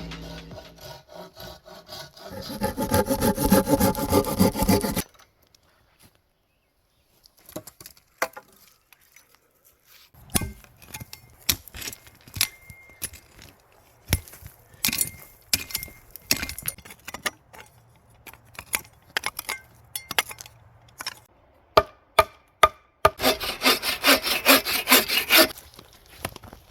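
A saw cutting through wood in two bursts of quick, even strokes, one about two seconds in and one near the end. Scattered knocks and clicks of wood being handled come in between.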